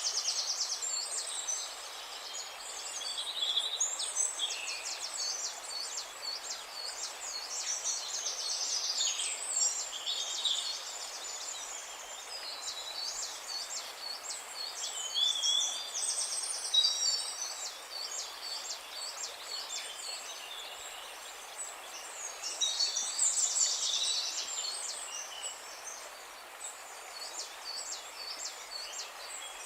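A dawn-chorus-like mix of several songbirds singing at once: overlapping chirps and whistles, with fast rattling trills rising out of the mix every few seconds, over a faint steady outdoor hiss.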